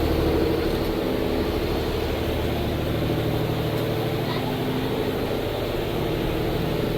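A vehicle's engine running steadily, a continuous even drone with no changes in pitch or level.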